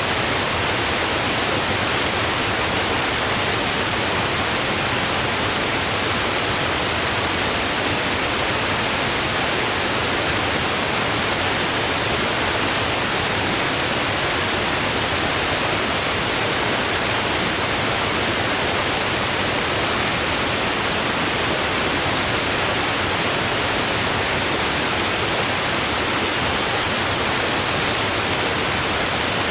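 A steady, unchanging hiss of even noise across all pitches, with no breaks or separate sounds.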